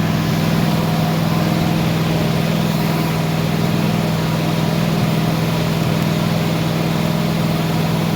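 1978 Chevy C10's engine running steadily at a fast idle after sitting for about 20 years; something sticky keeps holding the revs high.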